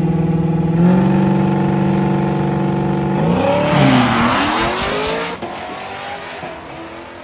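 Muscle car engine running at raised revs, then pulling away hard: the pitch dips and climbs again under a rush of noise, and it fades as the car drives off.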